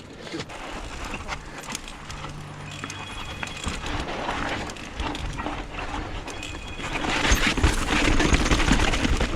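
Mountain bike rolling down a rough, steep chute: tyres on dirt and rock with the bike knocking and rattling over the bumps, getting louder from about seven seconds in.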